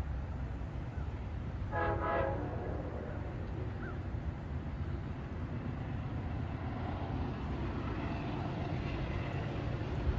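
Train horn giving one short blast about two seconds in, over a steady low rumble.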